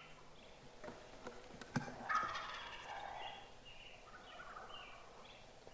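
Wild turkey tom gobbling, a loud rattling call about two seconds in, followed by a few short, fainter notes. A single sharp click comes just before the gobble.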